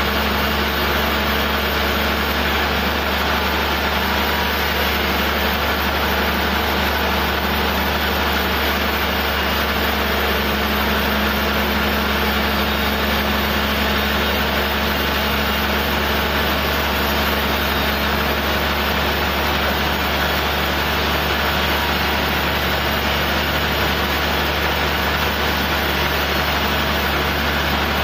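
Sawmill machinery's engine running steadily at an even pitch and level, with no break or change.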